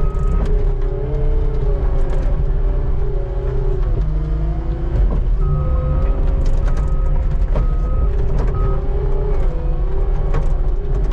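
Skid steer engine running steadily under work, with a wavering whine over the low rumble and scattered knocks and clunks.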